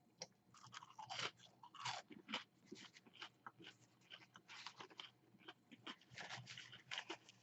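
Faint crunching and chewing of curly fries: a quick, irregular run of crisp crunches.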